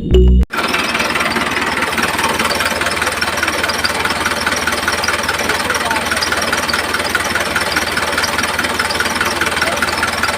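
Small DC motor running steadily with a fast, even buzzing rattle. Music cuts off about half a second in.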